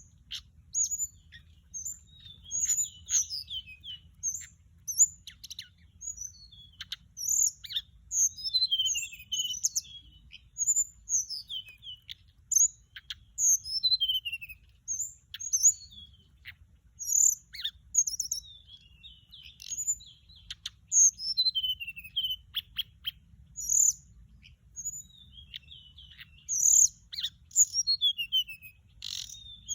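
Tickell's blue flycatcher song played as a decoy call: phrase after phrase of quick, high, sweeping whistles and short trills, with only brief gaps between them.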